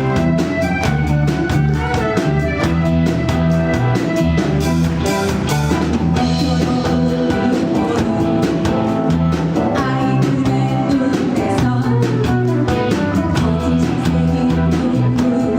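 Live rock band playing: drum kit keeping a steady beat under bass and electric guitar, with a lead voice singing.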